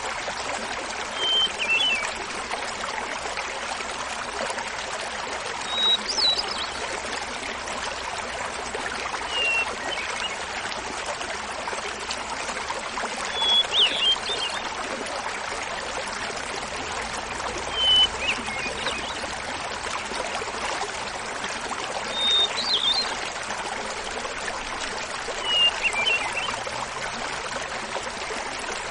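Small mountain waterfall babbling steadily under a hermit thrush's song. The thrush sings a phrase about every four seconds, seven in all: each a clear held note then a quick fluting flourish, pitched higher or lower from one phrase to the next.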